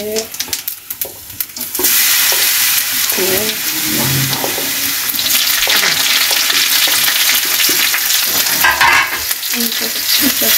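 Cumin seeds crackling in hot ghee in a small nonstick pan, then about two seconds in a sudden loud, steady sizzle as chopped garlic and green chillies go into the hot fat for a tadka, stirred with a wooden spatula near the end.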